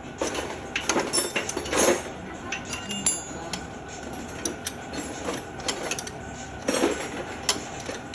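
Irregular metal clinks and knocks of hand tools and engine parts being handled during engine repair work, with a short metallic ring about three seconds in.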